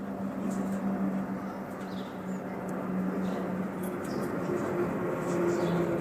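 Aircraft engine noise: a steady hum with a low held tone, slowly growing louder, with a few short high squeaks over it.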